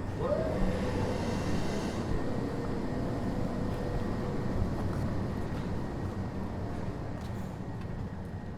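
Kitakyushu Monorail Series 1000 car standing at the end of the line, with the steady rumble of its onboard equipment running. A faint tone swoops up just after the start, holds for a few seconds, then fades, and the overall sound slowly dies down near the end.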